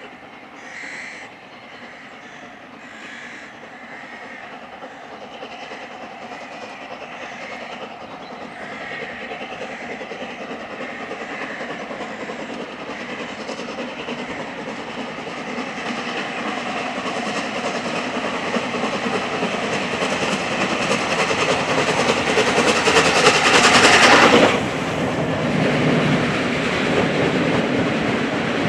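Heritage steam train on the move, getting steadily louder as it approaches, loudest as the locomotive passes about 24 seconds in, then dropping sharply as the coaches run by on the rails.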